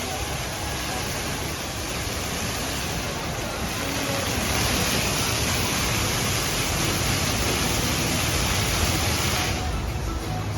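Show-fountain water jets spraying and splashing into a pool, a steady rushing hiss that drops off sharply about nine and a half seconds in.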